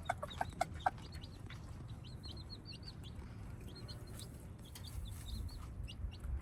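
Gamefowl clucking, about five short clucks in quick succession in the first second, with faint high-pitched chirping going on throughout over a low rumble.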